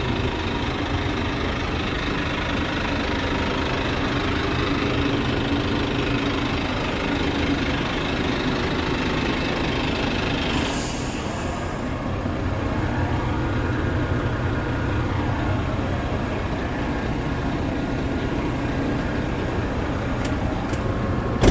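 Scania G-series tipper truck's diesel engine idling steadily, with a short burst of hiss about halfway through.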